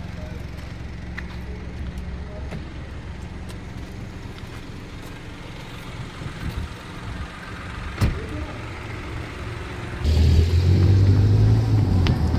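A vehicle engine running with a steady low hum, getting clearly louder about ten seconds in; a single sharp knock about eight seconds in.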